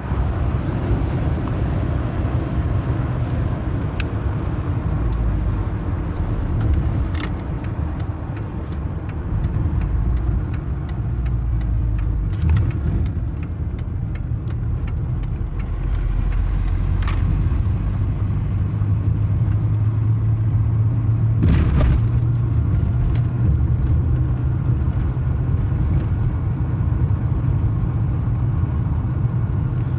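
Car being driven on the road: a steady low rumble of engine and road noise, with a few short sharp clicks.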